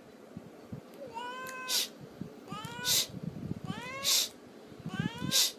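A cat meowing four times, each call rising in pitch and ending in a short hissy burst.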